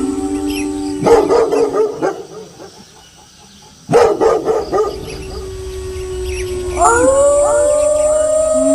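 Wolves howling in long held tones, broken by two short bursts of dog barking, the first about a second in and the second about four seconds in, with a brief near-silent gap between them. Near the end several howls rise together into a chorus.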